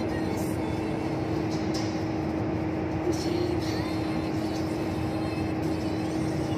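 Steady road and engine noise of a vehicle driving along a highway, with a constant hum over it and a few faint ticks.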